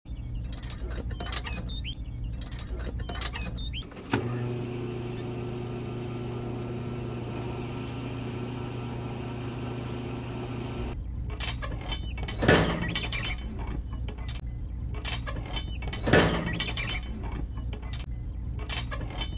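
A small motor runs with a steady hum and hiss for about seven seconds and then cuts off suddenly. Handling clicks and knocks come before and after it, with two louder knocks in the second half.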